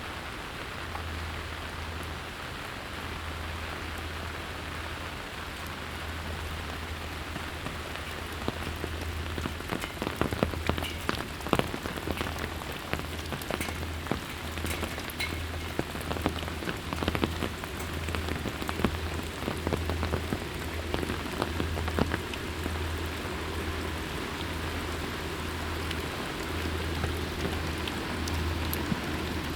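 Steady rain falling, with many sharp close drops ticking against a hard surface, thickest through the middle stretch.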